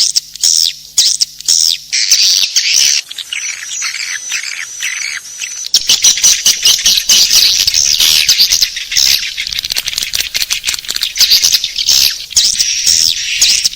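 Many swiftlets chirping in quick, dense, repeated twitters. About six seconds in, a low rumble comes in under the calls.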